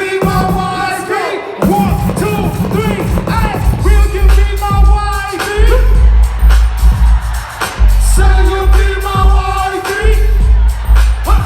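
Live concert music: a singer's voice over a heavy bass line and drums, played loud through the PA.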